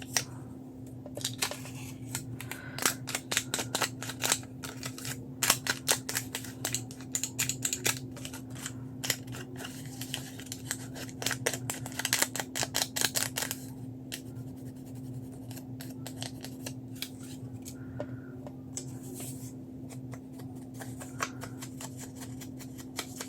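Scissors snipping around cut-out shapes in paper, a quick run of many short snips that thins out to a few scattered cuts about halfway through. A steady low hum runs underneath.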